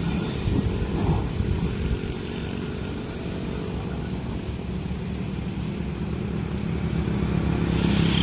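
A motor engine running steadily with a low hum, growing louder toward the end.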